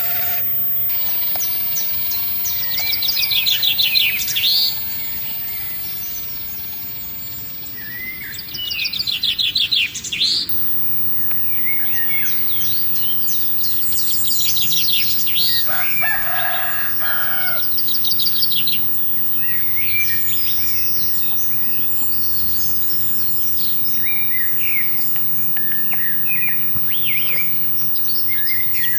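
Songbirds singing outdoors, with fast high trills and scattered chirps throughout. A rooster crows once about halfway through.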